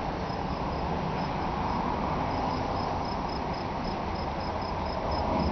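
A cricket chirping steadily, short high chirps at about four a second, over a steady background hiss.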